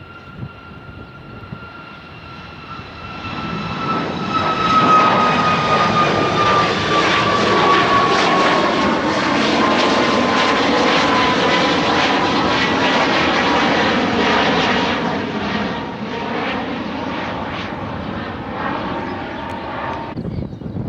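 Jet aircraft passing close by, its engine whine sliding steadily down in pitch as it goes past. The noise swells from about three seconds in, stays loud for about ten seconds, eases off, then cuts off suddenly near the end.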